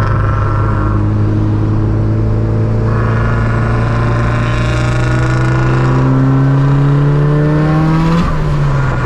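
Car engine accelerating hard, its pitch climbing steadily for about five seconds, then dropping sharply near the end at a gear change.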